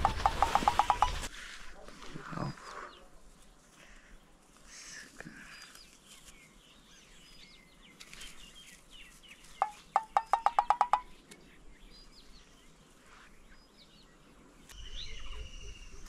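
A bird calls a quick run of about ten notes, slightly rising in pitch, twice: once at the start and again about ten seconds in. Faint high chirps of small birds come in between.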